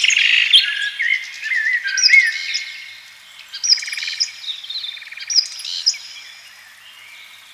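Several birds chirping and whistling at once, with quick rising and falling notes and short buzzy trills, thinning out over the last few seconds.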